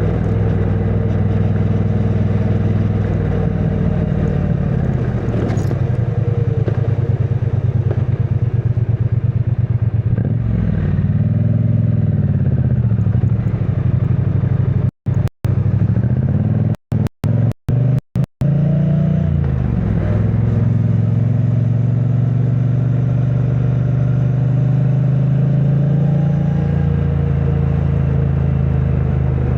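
2022 Triumph Bonneville T100's 900 cc parallel-twin engine running through its stock exhaust under way. Its pitch dips and climbs again around the middle, then rises once more a few seconds later. Just after the middle the sound cuts out for a split second six times.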